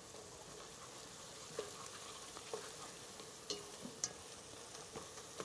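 Meat frying in a pot on the stove with a faint, steady sizzle, stirred with a spoon that gives a few light clicks against the pot.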